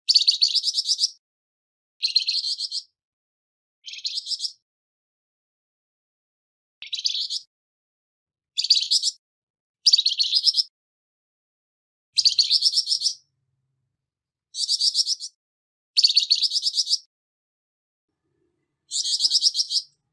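Flamboyan bird giving its harsh, rasping call: short bursts of rapid chattering notes, each under about a second long, about eleven times with short silent gaps between.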